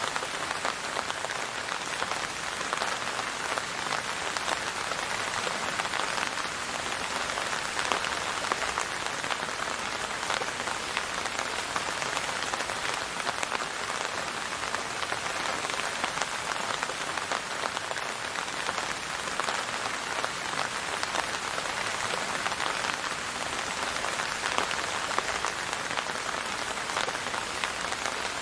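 Steady rain falling and pattering on a surface, an even wash of many small drops with no thunder or music.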